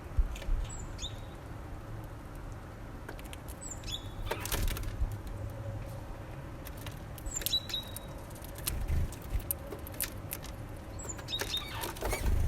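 Small birds at a feeder: four short, high calls, each falling in pitch, spaced a few seconds apart, and two bursts of wing flutter and scuffling, about four seconds in and near the end.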